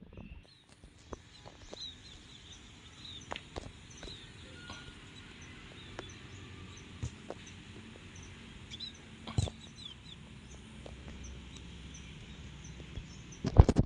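Birds chirping over and over above a faint low rumble, with a few sharp thumps, the loudest just before the end.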